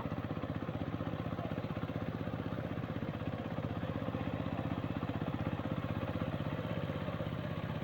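Walking tractor's single-cylinder diesel engine running steadily, with an even, rapid firing beat.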